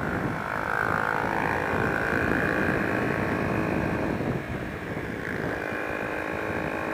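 Honda XR125's single-cylinder four-stroke engine running steadily under way, with wind and road noise mixed in; the level dips briefly about four and a half seconds in.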